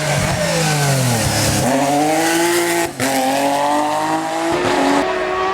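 Race car engine coming off the throttle for a bend, then accelerating hard up through the gears, with quick upshifts about three seconds in and again near the end.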